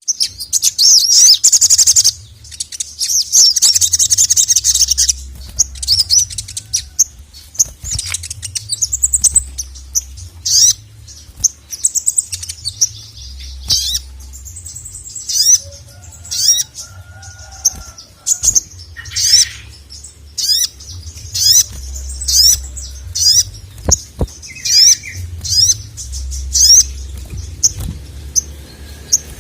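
Sogon (sogok ontong), a small sunbird-like bird, calling hard: a dense, rapid, high-pitched chattering trill for the first few seconds, then a steady series of sharp, high chirps, the fired-up 'gacor' song of a male. A low rumble comes and goes underneath.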